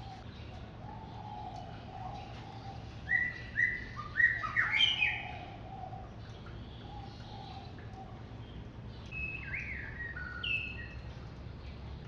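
Bird song: a quick phrase of short whistled notes about three seconds in and another shorter phrase near the end, over a fainter low wavering call in the first half and a steady low background rumble.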